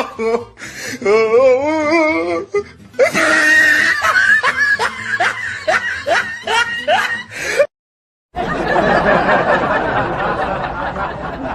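Laughing sound effects played back to back: a high, warbling laugh, then a run of rhythmic 'ha-ha' laughs at about two or three a second. These break off suddenly just before the 8-second mark, and after a brief silence a dense burst of many people laughing at once follows and fades near the end.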